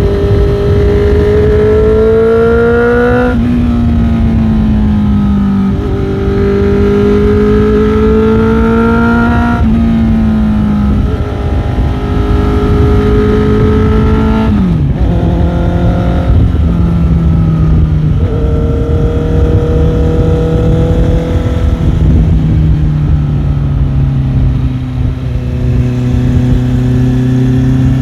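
Motorcycle engine pulling hard, its pitch rising and then dropping at each upshift about three times in the first half, then running lower and steadier in a higher gear. A dense low rumble of wind noise runs underneath.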